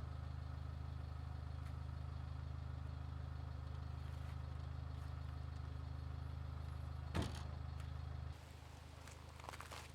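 A steady low motor hum, like an idling engine, which drops away about eight seconds in, with a sharp click shortly before and a few light clicks after.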